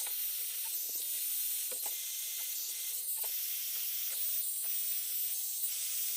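Heat gun blowing steadily, a constant hiss, as it shrinks heat-shrink sleeves over crimped wire joints, with a few faint clicks of the wires being handled.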